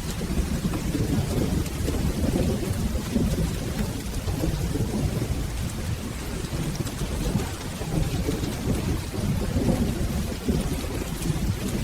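Steady rain with a continuous low rumble of rolling thunder that swells and eases without any sharp clap.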